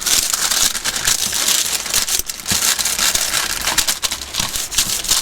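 Heavy rain pattering on the roof of a small garden studio, a dense steady crackle of drops.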